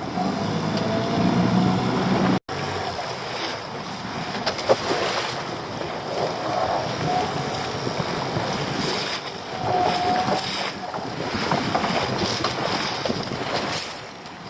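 Wind buffeting the microphone over water lapping against a small boat, with a few light knocks from gear aboard.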